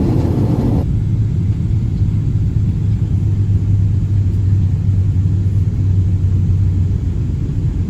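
Steady low rumble inside the cabin of a Boeing 777-300 airliner, strongest in the bass. About a second in it changes to a darker, lower rumble.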